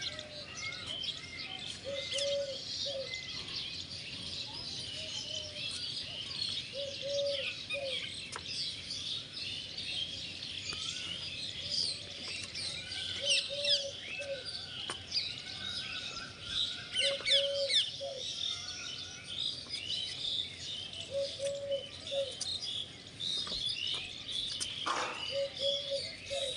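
Many small birds chirping and twittering throughout, with a lower short call repeating about every five seconds.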